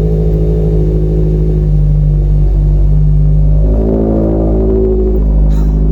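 A car engine running close by, steady, with its pitch rising briefly about four seconds in, as if lightly revved, then settling again.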